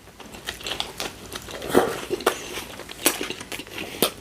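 Close-miked chewing of a sub sandwich: irregular crunches and wet mouth clicks.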